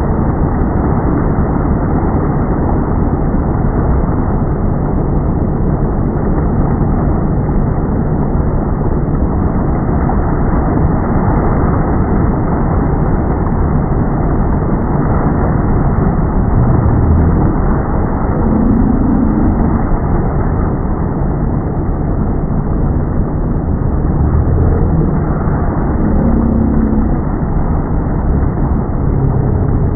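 A motorboat engine running steadily with water noise, heard as a dull, continuous low rumble.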